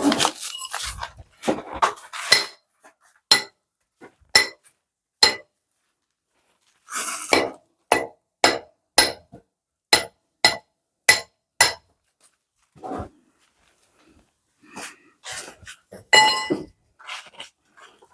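A series of sharp metallic clinks, each ringing briefly. They come about once a second at first, then in a steady run of about two a second, with a louder cluster near the end.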